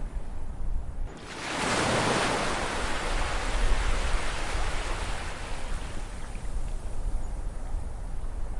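An ocean wave breaks about a second in, its rush of surf swelling and then washing out over several seconds, over a steady low rumble of sea.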